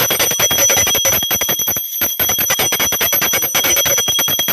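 A metal bell rung rapidly and without letup, its strikes running together over a steady ringing tone, with one brief break about two seconds in.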